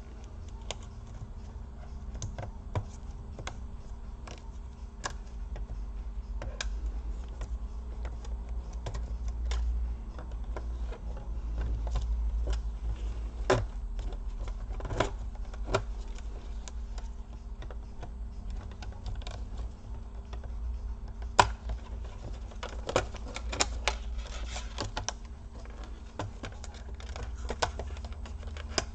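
Irregular small clicks and taps of plastic parts being handled on an Acer Aspire 5738 laptop as its keyboard and keyboard cable are worked loose, with a busier run of clicks about three-quarters of the way through, over a low steady hum.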